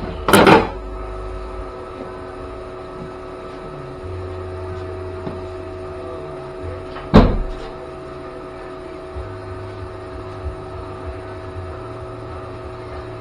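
Sheet-metal body panel knocking against the car body as it is worked into place: a short clattering rattle near the start and one sharp knock about seven seconds in. A steady hum runs underneath.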